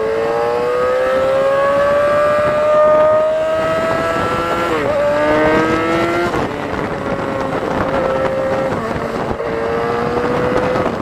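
Yamaha R6 inline-four sportbike with a loud exhaust accelerating through the gears. The engine note rises steadily for about four and a half seconds, drops sharply at an upshift, pulls briefly again, drops at a second shift, then holds a nearly steady pitch while cruising, with wind rushing over the helmet microphone.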